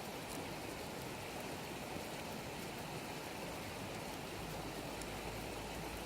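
Wood fire burning with a steady hiss and a few faint crackles.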